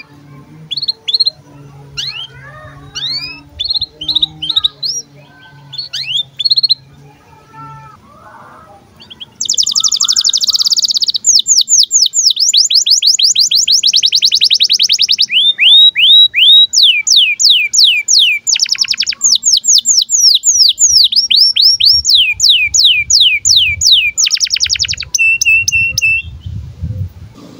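Male canary giving scattered short chirps for the first several seconds, then breaking into a long rolling song of rapid, repeated downward-sweeping notes in changing phrases. The song stops about two seconds before the end.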